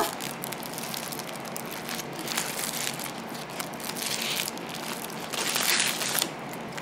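Close-miked chewing of a mouthful of chicken burger, with soft crunching and the foil-paper wrapper crinkling in the hands in brief surges.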